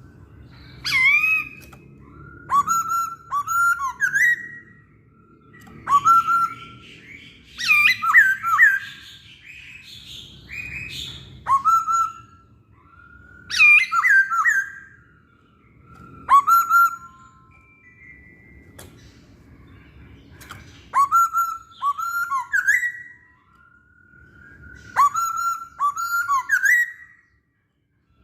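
Masked laughingthrush (poksay Hongkong) singing loud, repeated phrases of quick rising and falling whistled notes, one phrase every couple of seconds with a longer pause about two-thirds of the way through, over a low background rumble.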